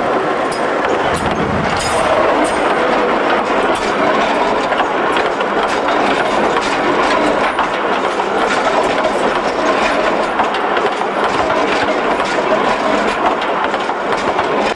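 A diesel-hauled train passing directly over the listening point between the rails: steel wheels rolling on the track in a steady, loud rumble with repeated sharp clicks and clacks as they cross rail joints.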